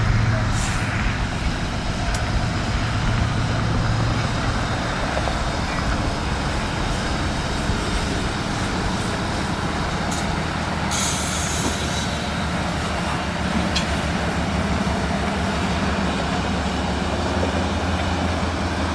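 Diesel-hauled freight train passing close by: the locomotive engines run with a steady low hum over the continuous rumble of cars rolling on the rails. A short hiss comes about eleven seconds in.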